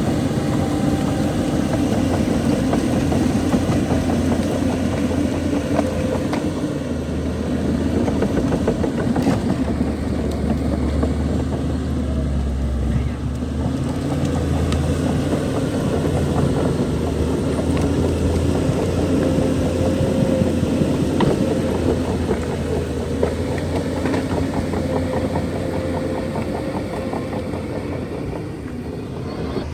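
Shantui DH17C2 crawler bulldozer's diesel engine running steadily, with a few sharp clicks.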